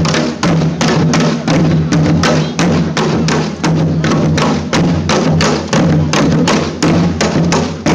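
Live percussion ensemble playing a fast, driving rhythm of drum strokes, about four to five strikes a second, with no break.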